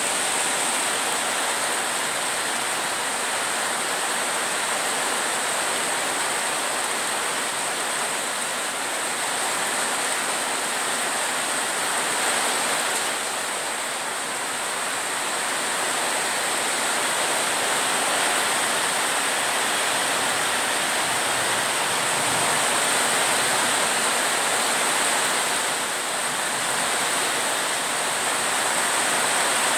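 Heavy rain falling steadily, with the downpour on a corrugated metal roof close overhead.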